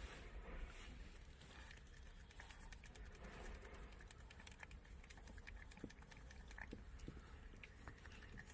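Near silence with faint, scattered light clicks and ticks, thickest a few seconds in.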